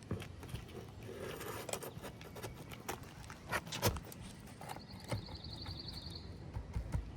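Scattered, irregular knocks, taps and scrapes of a hand tool working under asphalt shingles to pull out roofing nails.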